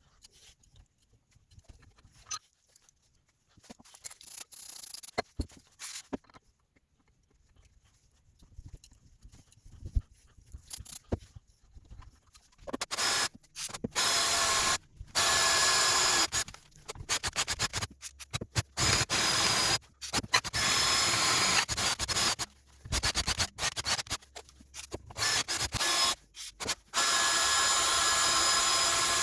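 A few quiet knocks and handling clicks. Then, about thirteen seconds in, a power tool starts grinding or sanding metal, a steady whine over a rasping noise, in repeated bursts that stop abruptly.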